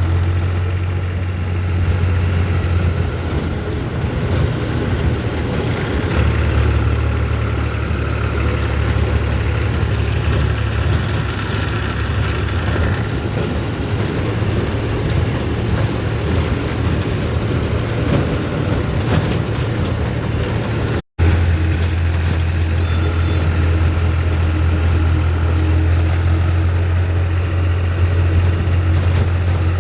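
Tractor engine running steadily with a deep, even hum. The sound cuts out for an instant about two-thirds of the way through, then resumes unchanged.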